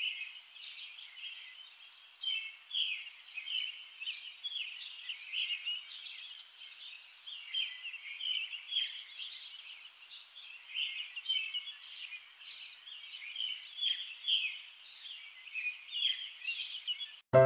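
Birds chirping, many short high notes overlapping in a steady chatter.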